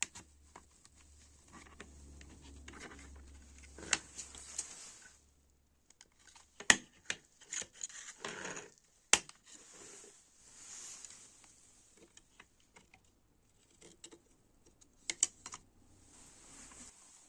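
Hand work on small parts: scattered sharp clicks and knocks, the loudest about seven and nine seconds in, between stretches of scraping or rubbing.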